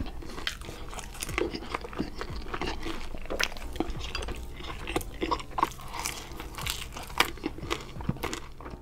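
A person eating close to a sensitive microphone, the ASMR-style recording typical of mukbang: chewing with frequent sharp crunches and wet mouth clicks at an uneven pace.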